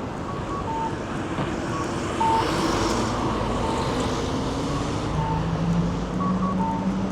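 Busy city street ambience with traffic passing. A vehicle engine's drone enters about five seconds in and rises slowly in pitch as it pulls away. Short electronic beeps repeat throughout.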